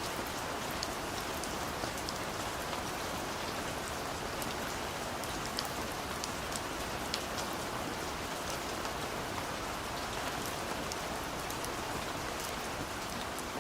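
Steady rain falling, an even hiss with many scattered close drop ticks.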